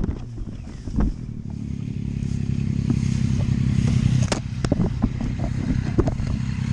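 A motorcycle engine running steadily at low revs, with scattered sharp knocks and clatter: one near the start, one about a second in, a pair a little past the middle, and one near the end.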